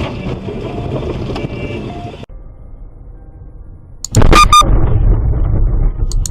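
Car driving noise, then after a cut a sudden very loud crash-like impact about four seconds in, with a brief shrill ringing tone, followed by heavy low rumbling.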